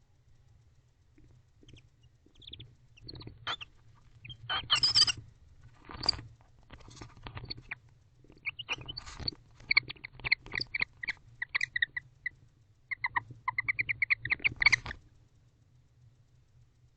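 Pair of barn owls calling to each other in a nest box: a few short, harsh rasping bursts, then quick runs of high chirping twitter notes, several a second, that stop about fifteen seconds in.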